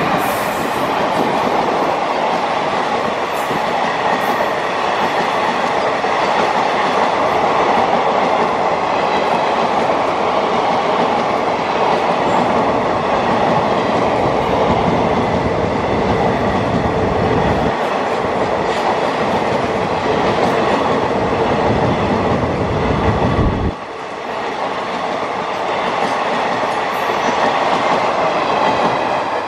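Passenger coaches of an express train running past close by: a loud, steady rumble and rattle of the wheels on the rails. The deep part of the rumble drops away suddenly about three-quarters of the way through, while the rattle carries on.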